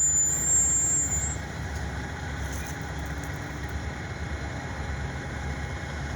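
EMD SD40 diesel locomotives' 16-cylinder two-stroke engines running at a steady low rumble. A thin high whine fades out about a second in.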